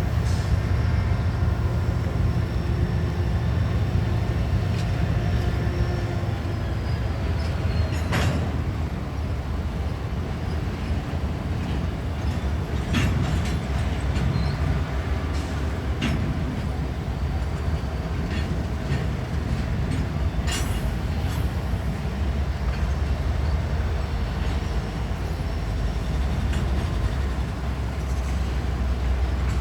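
Diesel freight locomotives running in the yard: a steady low engine rumble, with a few sharp clanks from the cars or couplers.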